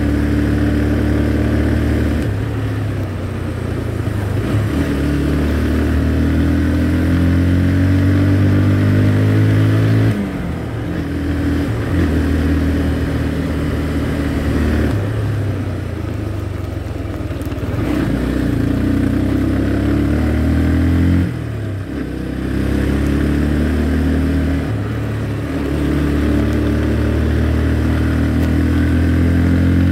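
Motorcycle engine running on the move, its pitch climbing steadily and then dropping off sharply several times as the rider shifts gears.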